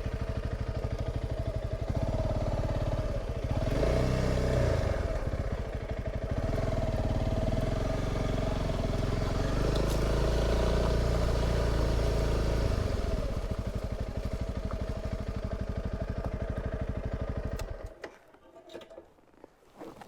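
Honda CRF300 Rally's single-cylinder four-stroke engine running, louder through the middle stretch, then stopping abruptly near the end.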